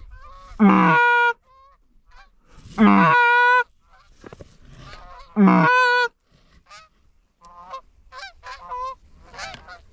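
Canada goose honking: three loud, drawn-out honks, each starting low and breaking up into a high held note, then a run of shorter, quicker honks and clucks in the second half.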